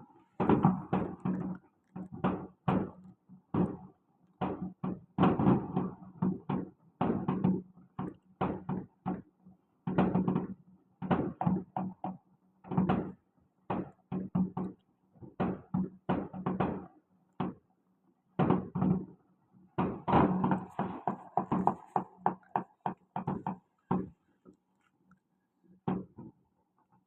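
Fireworks going off: a rapid, irregular series of bangs, several a second, with a brief lull about two-thirds through and fewer bangs near the end.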